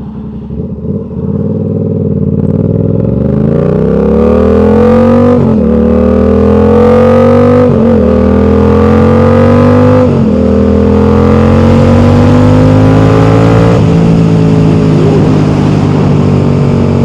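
Yamaha R7's parallel-twin engine pulling away from low speed, its pitch rising through the gears with three quick upshifts, then holding steady at cruising speed.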